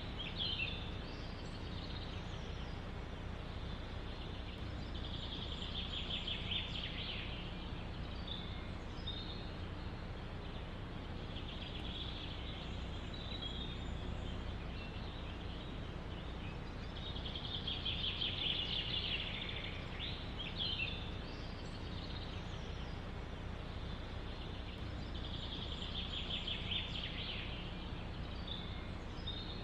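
A songbird repeats a short, rapid trilled song phrase about every six seconds, with a few fainter chirps between phrases, over steady low background noise.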